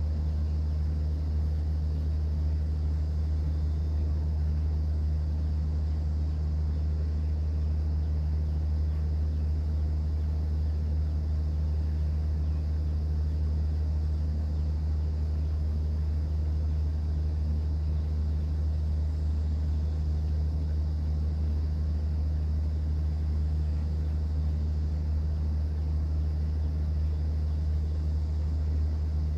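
Steady low drone of a cruise boat's engine running at constant speed, with a faint hiss of water over it; it does not change.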